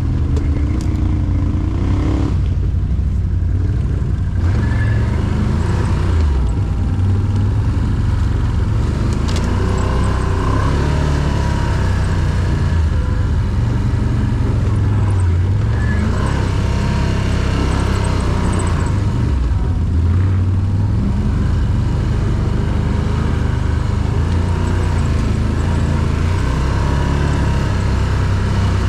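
Quad bike (ATV) engine running under load off-road, its revs rising and falling.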